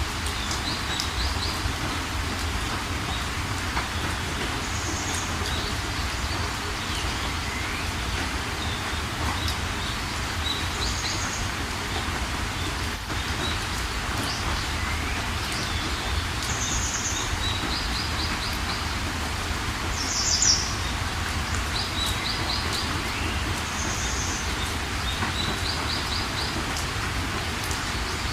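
Steady rain with a low rumble underneath, and birds calling over it: a short high call repeating every few seconds and a quick trill of four or five notes. The loudest call comes about twenty seconds in.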